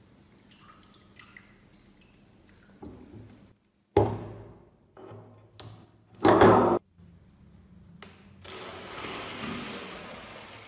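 Water splashing and pouring in several short cut-together clips, each starting suddenly and stopping abruptly, the loudest a brief burst past the middle.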